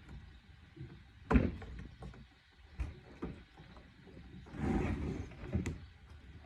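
Handling noise from working on an old accordion's parts: a sharp knock about a second in, a few lighter clicks, and a short rustle about five seconds in.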